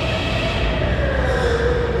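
Electric go-kart motors whining as the karts run the track, the main whine falling slowly in pitch in the second half, over a rumble of tyres on the track.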